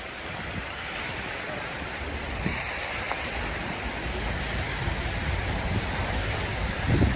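Snowstorm street ambience: a steady rushing of wind and city traffic, with a low rumble that builds and a short muffled thump near the end.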